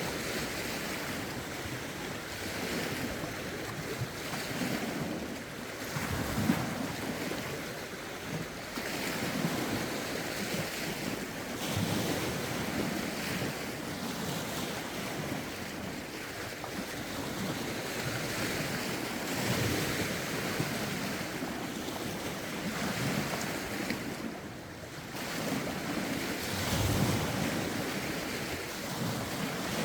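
Lake waves washing against the shore in repeated swells every few seconds, with rough wind gusting on the microphone.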